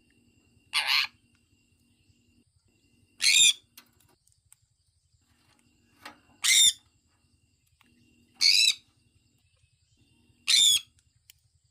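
Sun conure calling: five short, loud calls, one about every two seconds.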